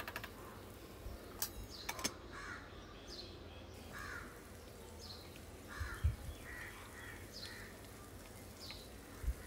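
Birds calling in the background with short harsh calls, repeating about once a second, and a few faint clicks in the first two seconds.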